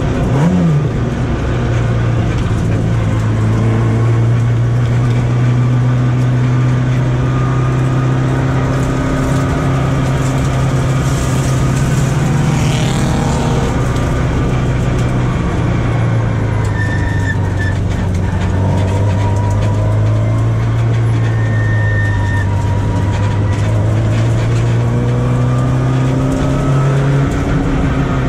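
Onboard sound of a VW Golf Mk1 race car's engine running at a steady, nearly constant pitch, without hard revving. A brief rising whine about halfway through.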